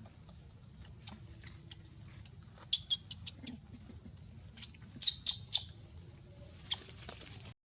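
Monkeys giving short high-pitched squeaks and chirps in quick clusters over a steady high insect-like hiss; the sound cuts off suddenly near the end.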